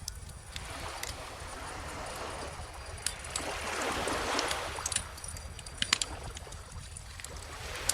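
Bonfire crackling with scattered sharp pops over calm ocean waves washing in. One wave swells to a peak about halfway through and another builds near the end; the loudest pops come about six seconds in.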